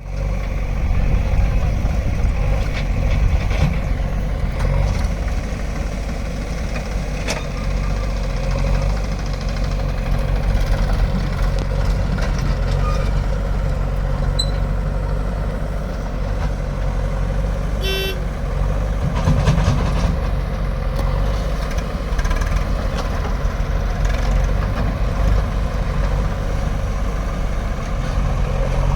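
Heavy diesel engine of earth-moving machinery running steadily, with occasional knocks over it and a brief high-pitched tone about eighteen seconds in.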